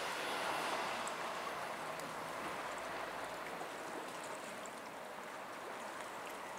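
A c2c electric multiple unit running away along the line, its rail noise fading to a soft, even hiss.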